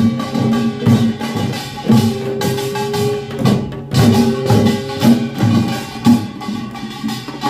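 Korean pungmul farmers' band playing: drums beating a rhythm with loud accents about once a second under the constant bright clanging of gongs.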